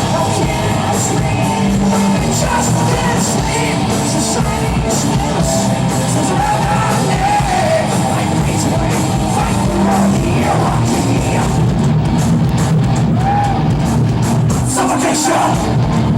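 Live rock band playing loud and steady, with drums and a singer's vocals over the band.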